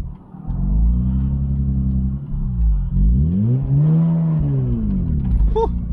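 Mazda RX-8's twin-rotor Wankel rotary engine revving up and easing off twice as the car is driven gently. There is a short drop in level just after the start.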